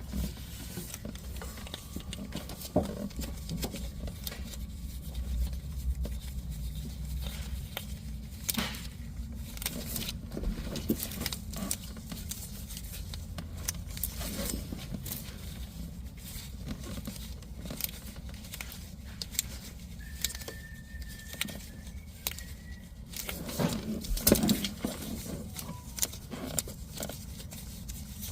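Scattered clicks, clinks, scrapes and knocks of hand tools and metal parts being handled, with a few louder knocks, over a low steady hum.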